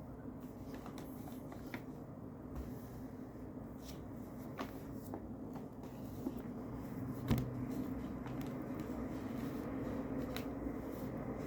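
Quiet desk-work handling sounds: scattered small clicks and paper-like rustles over a steady low background hum, with a sharper click about seven seconds in.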